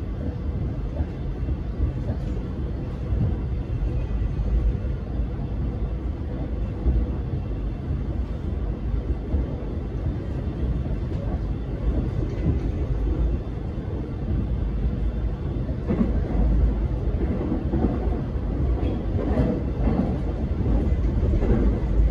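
X'Trapolis electric multiple-unit train running along the track, heard from inside the carriage: a steady low rumble with a faint steady hum. Short clicks and knocks from the wheels and carriage become more frequent in the second half.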